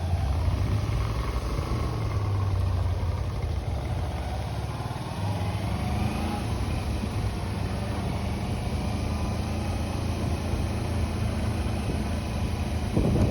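A motor vehicle engine running steadily with a low hum and a few slow rises and falls in pitch, then a short knock right at the end.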